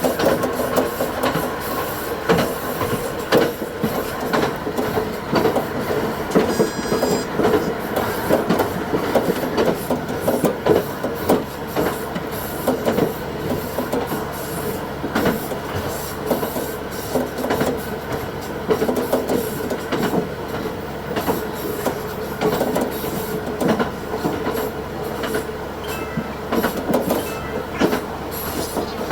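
Diesel railcar running along the line, heard from the cab and sped up to double speed: a steady running tone under a dense patter of wheel clicks over rail joints. There is a brief higher tone about seven seconds in.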